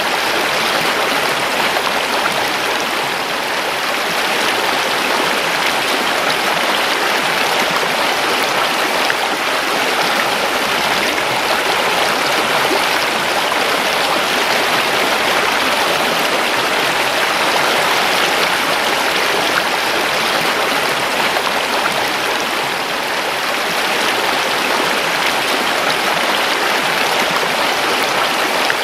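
River water flowing over rocks: a steady, dense rushing and babbling.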